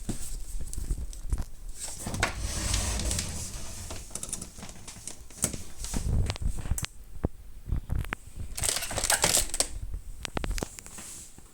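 Handling noise: irregular clicks, knocks and rustling, loudest in two bursts about two seconds in and about nine seconds in, with no motor running.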